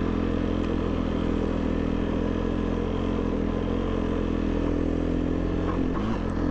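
Snow machine engine running at a steady speed under light throttle, its pitch holding nearly level, with a slight change near the end.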